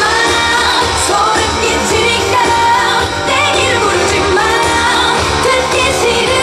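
Female pop singer singing live over loud pop accompaniment, with gliding, sustained vocal lines.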